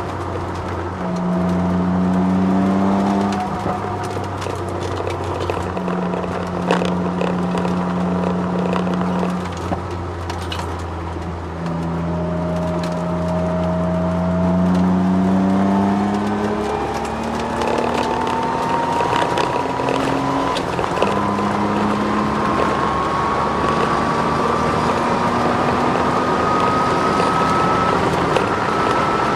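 Twin-turbo Ford Sierra XR4x4 heard from inside the cabin under hard acceleration on track. The engine note climbs and drops back at several gear changes. From about halfway a thin whine climbs steadily in pitch with road speed, the whine the owner puts down to the car's solid differential mount.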